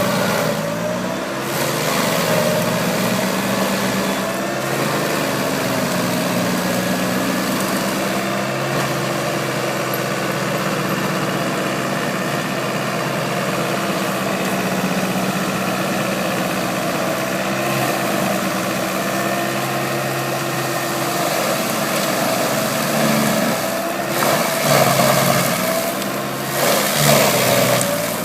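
Lamborghini tractor's diesel engine running steadily, its pitch wavering a little, with a few louder, rougher stretches near the end.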